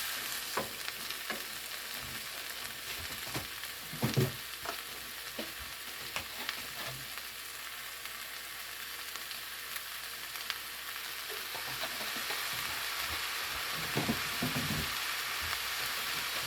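Wheat pancit noodles and broccoli sizzling in a frying pan, a steady hiss. A utensil stirring them knocks against the pan now and then, most clearly about four seconds in and again near the end.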